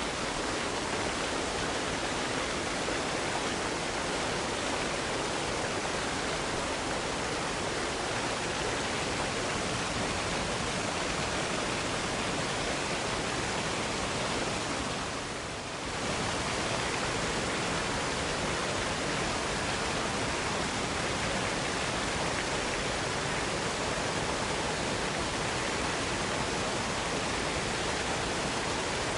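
Waterfall cascade: water falling and rushing steadily as an even hiss across all pitches, briefly a little softer about halfway through.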